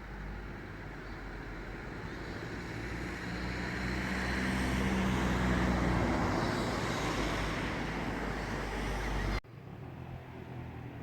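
A motor vehicle passing, its running noise swelling to a peak midway and easing off, then cut off abruptly near the end.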